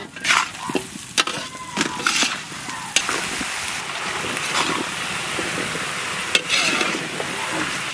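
Chopped vegetables tipped into a karai of hot mustard oil and spices: a few sharp knocks as they land, then a steady sizzle from about three seconds in.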